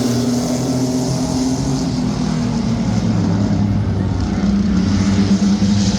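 Engines of a field of mini trucks racing around the speedway, a steady drone that swells slightly near the end.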